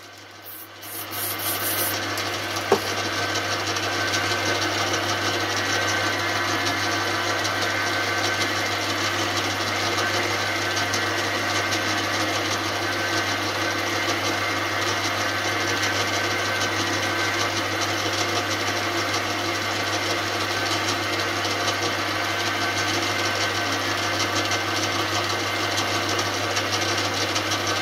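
An electric motor-driven tool spins up over about a second and then runs steadily with a constant hum, spinning a motorcycle fork-cap preload adjuster while it is finished with a Scotch-Brite abrasive pad.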